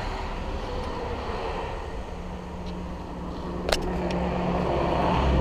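A motor vehicle's engine running steadily, a low hum that grows louder toward the end, with a single click a little past the middle.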